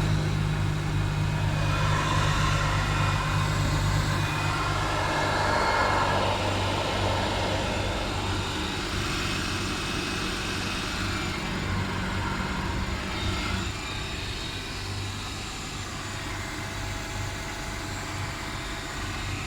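Mercedes-Benz M272 3.0-litre V6 engine running at idle, a steady engine note that drops in steps, once about a quarter of the way in and again about two-thirds through, growing a little quieter as it settles.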